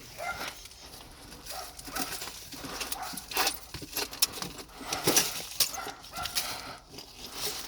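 A dog whimpering briefly a few times, over scattered rustles and knocks.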